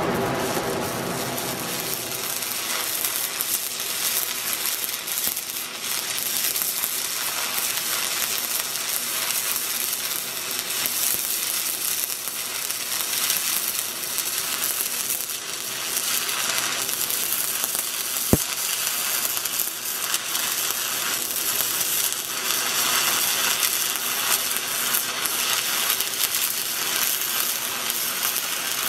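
Stick-welding arc crackling and sizzling steadily as a downhill bead is run around a pipe-to-flange joint, with one sharp click about two-thirds of the way through.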